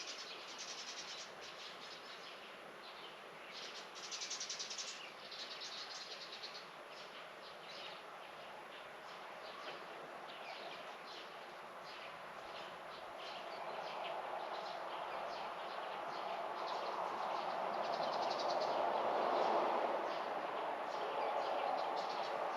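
Small songbirds chirping and twittering in quick repeated calls in a garden. From about halfway, a broad rushing sound swells, loudest a few seconds before the end.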